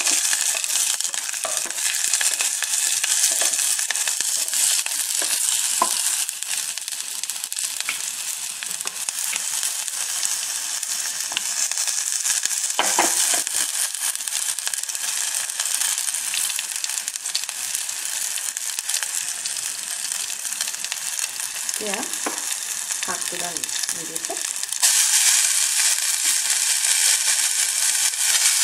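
Spices, garlic, ginger, bay leaves and green chillies sizzling steadily in hot mustard oil in an aluminium pressure-cooker pan, with a few soft knocks of stirring around the middle. Near the end the sizzle jumps suddenly louder as chopped mustard greens are dropped into the hot oil.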